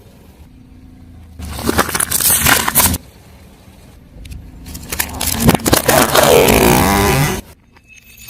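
A car tyre rolling over and crushing objects in two bursts of crunching and crackling. The first comes about a second and a half in. The second, longer one starts around four seconds and carries a falling squeal. Each cuts off suddenly.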